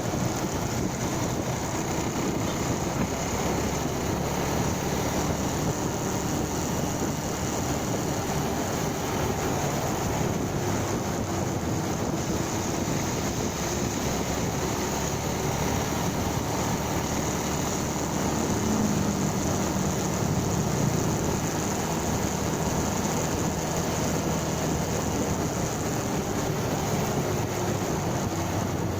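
Motorcycle engine running steadily while riding, with wind noise on the microphone. The engine note rises briefly about two-thirds of the way through.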